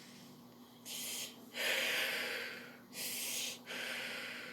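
A person breathing hard: about four heavy, noisy breaths in and out, starting about a second in.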